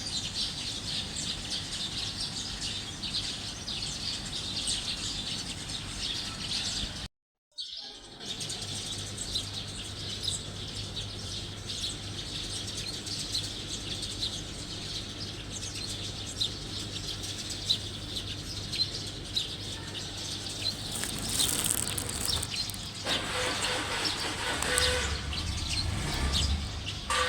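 Many small birds chirping and twittering together in a dense, continuous chorus, with a brief complete break about a quarter of the way in and busier, louder calling near the end.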